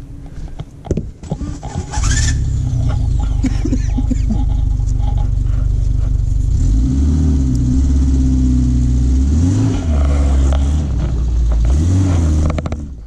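Off-road 4x4's engine running steadily, revving up and down a few times in the second half.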